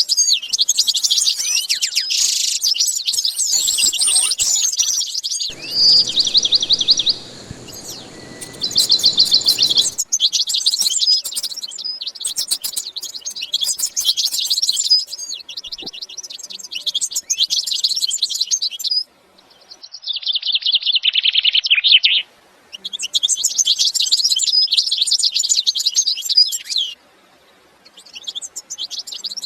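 Small cage birds chirping and twittering in fast, dense, high-pitched runs. The recording is spliced from several clips, with brief gaps a little past the middle and near the end.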